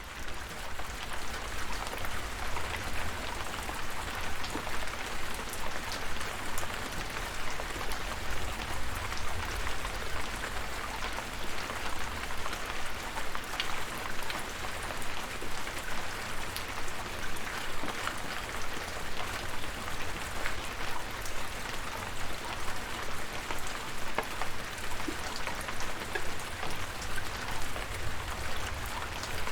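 Steady rain, with many separate drops pattering on a hard surface over a continuous hiss, and a low rumble underneath.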